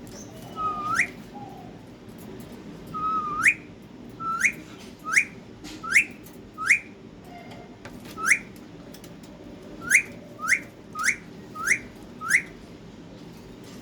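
Parrot whistling a string of about a dozen short rising whistles, each one sweeping sharply up in pitch, with a short pause midway. The first two start with a brief held note before they rise.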